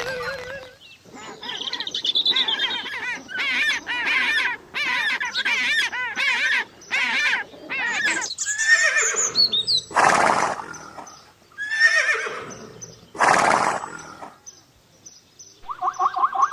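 Bird calling with quick, wavering chirps and trills, broken by three harsh, noisy screeches about ten to fourteen seconds in.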